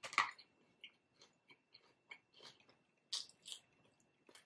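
Close-miked chewing of food: soft wet mouth clicks and small crunches, loudest just after the start, with another cluster about three seconds in.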